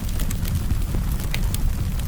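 Campfire burning: frequent sharp crackles and pops of burning wood over a steady low rumble of the flames.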